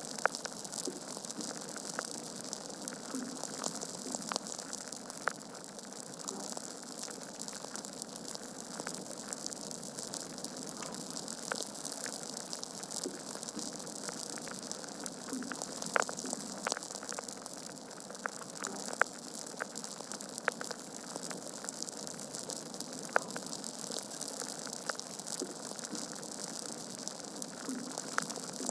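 Logs burning in a fireplace: a steady hiss with constant crackling and small pops, and several sharper pops standing out in the second half.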